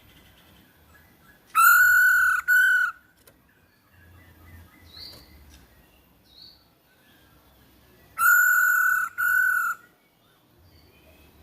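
Female masked laughingthrush (Hong Kong poksay) calling: a loud, drawn-out, level-pitched note followed at once by a shorter one, the pair given twice about six and a half seconds apart, with faint softer chirps in between.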